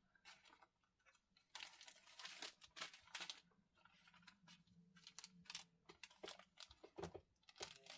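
Faint crinkling and rustling of packaging being handled, in several short spells with quiet between them.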